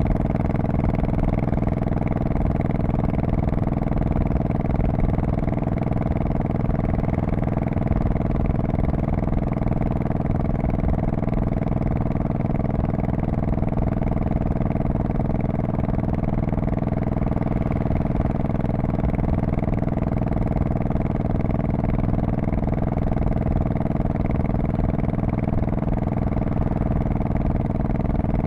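Honda Shadow Spirit VT1100C's V-twin engine and exhaust running steadily, its pitch holding even with no revving or gear changes.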